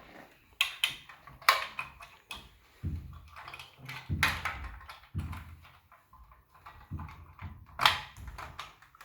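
Plastic parts of a model engine kit being handled and fitted together: scattered clicks and knocks, the sharpest about one and a half seconds in and again near the end.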